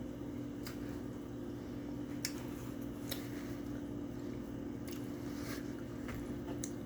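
Chewing food with a few short wet mouth clicks, over a steady low hum.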